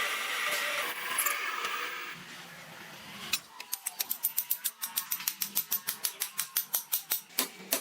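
A power tool runs with a steady, high, gritty noise and stops about two seconds in. About a second later a fast, even series of sharp metallic ticks starts, about six a second.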